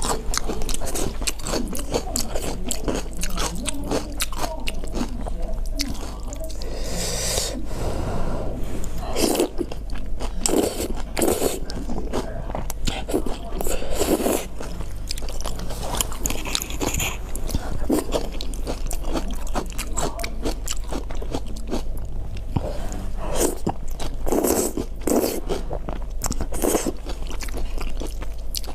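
Close-miked eating: a person biting and chewing food, with many moist mouth clicks and several longer, louder mouth noises scattered through.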